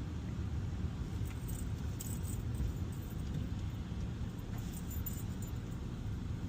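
Car cabin noise while driving: a steady low rumble of engine and tyres, with light jingling ticks now and then, about a second in and again near the five-second mark.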